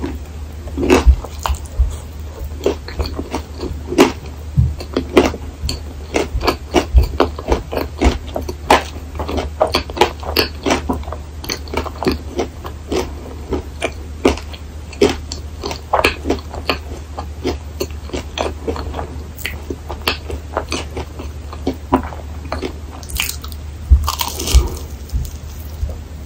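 Close-miked chewing of a crisp waffle with whipped cream: a quick run of crunchy, wet mouth clicks that thins out in the last third.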